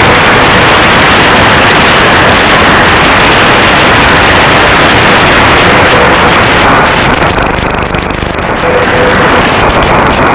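Loud shortwave static and hiss from an SDRplay RSP1 receiver, thick with rapid clicking impulse interference, which the owner suspects comes from poorly filtered household power supplies. About seven seconds in, the hiss dips and thins for a moment before coming back.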